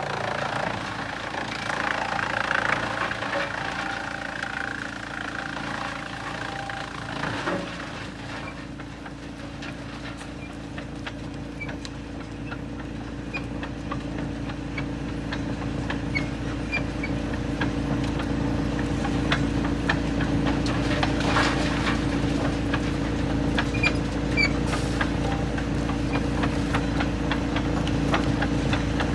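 Heavy machinery running steadily with an engine-like drone, growing louder in the second half, with scattered light knocks and rattles.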